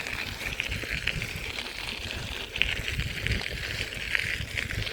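Wind rumbling on the phone's microphone while riding a bicycle, over a steady high-pitched hiss that flickers in strength.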